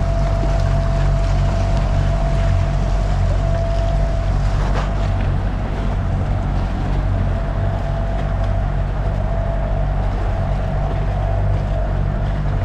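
MacGregor 26's outboard motor running steadily under way, with a steady whine above the engine hum and wind and water rushing past the hull.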